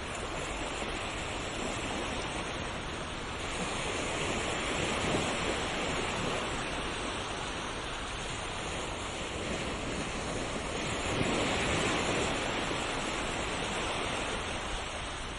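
Sea waves breaking and washing on a shore, a steady rush of surf that swells twice, about three and a half seconds in and again about eleven seconds in.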